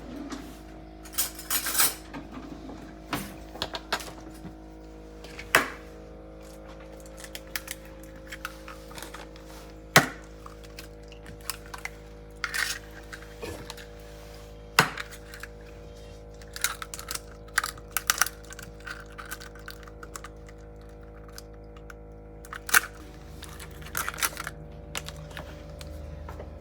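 Intermittent kitchen clatter: a dozen or so sharp knocks and short scrapes of utensils against bowls and dishes, spaced a few seconds apart, over a steady background hum.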